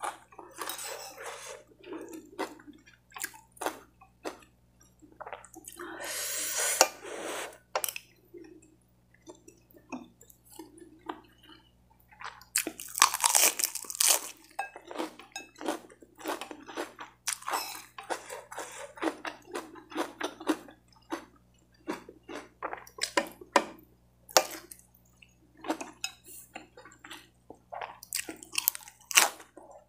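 A person chewing and crunching crisp raw lettuce leaves with fried rice, in many short crunches, with two longer, louder stretches about six and thirteen seconds in.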